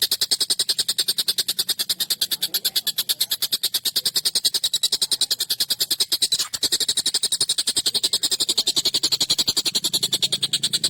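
Tengkek buto kingfisher giving a harsh, fast chattering call: a continuous string of rattling notes, about ten a second, with a brief break about six seconds in.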